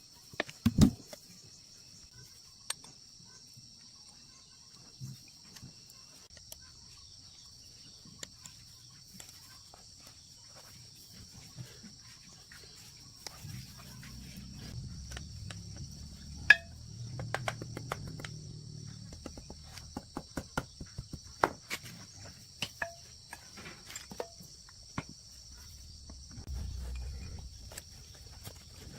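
Insects, likely crickets, chirring steadily in the background, with scattered sharp clicks and knocks throughout and a low rumble in the middle and near the end.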